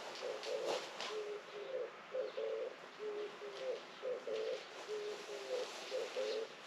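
A dove cooing, its low hooting song phrase repeated over and over without a break, with faint chirps of small birds behind it.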